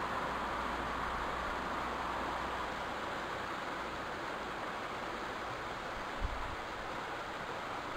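Steady rushing background noise with a brief low thump about six seconds in.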